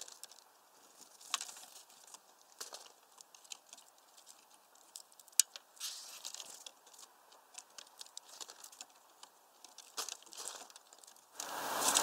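Scattered light taps, ticks and scratches of a great tit moving about on a wooden bird feeder, a few louder clicks among them. Near the end a steady rushing noise comes in suddenly and stays.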